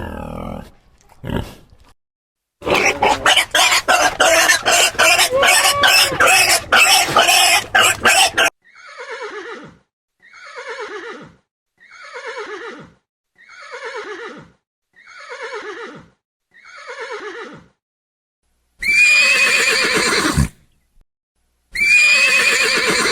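A run of farm animal sounds. Pig grunts at the start are followed by a dense, noisy stretch of animal sound, then seven falling calls about a second apart. Near the end a horse neighs twice, loud and high.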